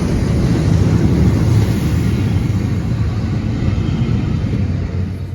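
Train passing through the station: a loud, steady rumble of wheels on rail that fades near the end as the train draws away. It is the empty coaching stock train hauled by steam locomotive 34046 Braunton.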